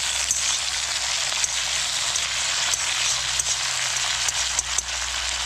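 Doubanjiang (chili bean paste) frying in oil in a pan over a low flame: a steady sizzle with scattered small pops and crackles.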